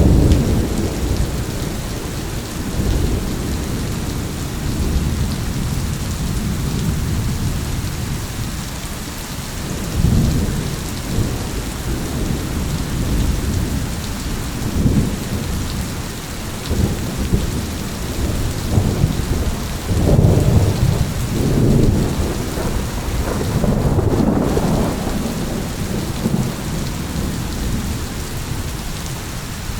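Steady heavy rain with rolling thunder rumbling underneath, swelling several times and loudest about two-thirds of the way through.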